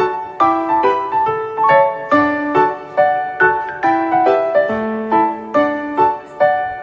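Background music: gentle piano playing a steady run of notes, several a second, each ringing and fading.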